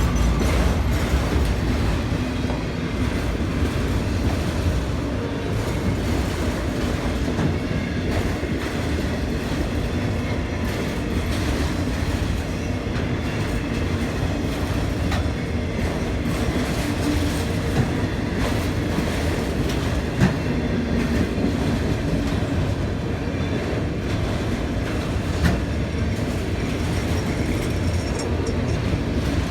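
Auto carrier freight train rolling past, its steel wheels clattering over the rail joints in a steady run of clicks, with one sharp knock about twenty seconds in.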